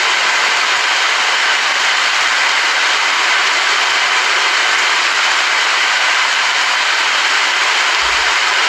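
Steady rain, an even hiss with no let-up, and a faint low rumble near the end.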